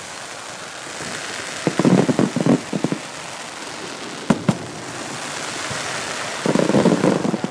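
Chinese New Year fireworks and firecrackers: a steady crackling hiss that slowly grows louder, with a rapid run of loud firecracker pops about two seconds in and again near the end, and two sharp bangs in between.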